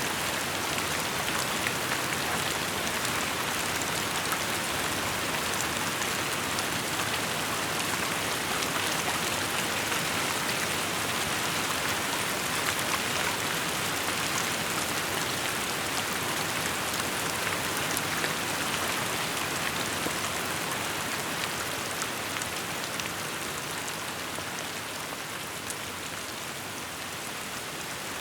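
Steady rainfall, an even hiss of drops hitting surfaces with scattered individual drop ticks, easing off slightly near the end.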